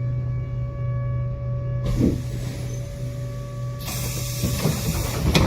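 Tram interior with a steady electrical hum, then a hiss of air about two seconds in that grows much louder about four seconds in, with several knocks near the end, typical of a tram's doors opening at a stop.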